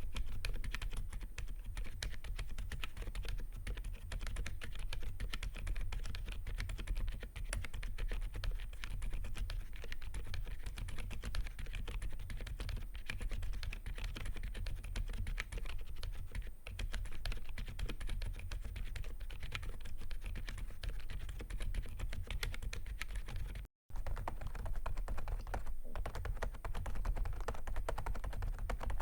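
Continuous fast typing on an AULA F87 mechanical keyboard with silent peach switches: soft, muted keystrokes over a steady background hiss from raised recording gain. After a brief dropout about 24 s in, the typing carries on with a key skin cover fitted over the keycaps.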